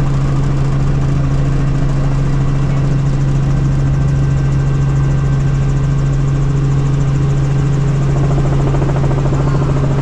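Helicopter running steadily, heard as a loud, unbroken drone of engine and rotor with a strong low hum.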